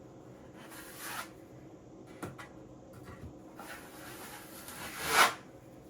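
Wide plastering trowel scraping across wet joint compound on a wall as it is feathered out: a short swipe about a second in, a small click around two seconds, then a longer stroke that builds to the loudest swish about five seconds in.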